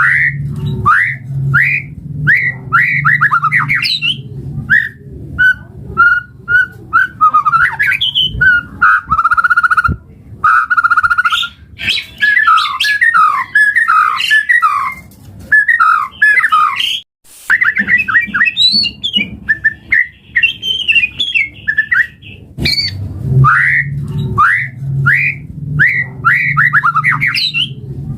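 White-rumped shama (murai batu) singing a loud, varied song: quick series of rising whistled notes, trills and chattering phrases, with a brief break about two-thirds of the way through.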